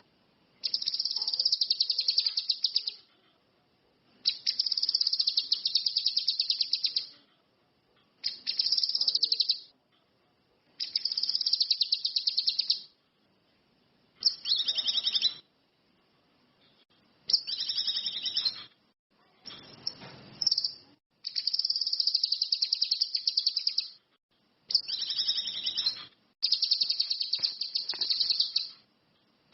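Cucak kinoi (ranti mas) singing a string of high, fast buzzing trills, each phrase about one to three seconds long, repeated about ten times with short pauses between.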